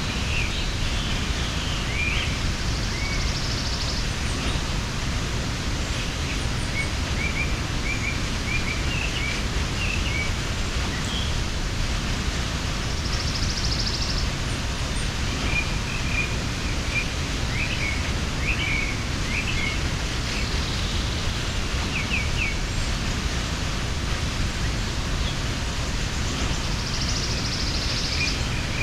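Steady rushing of a mountain waterfall, with small birds chirping in short calls throughout and a brief higher trill rising above the water about four times.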